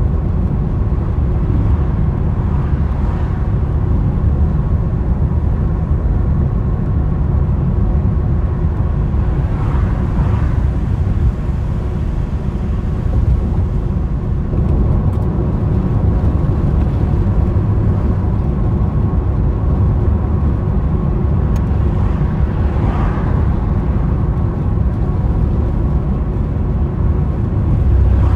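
Steady low rumble of a car being driven, with a few brief swells.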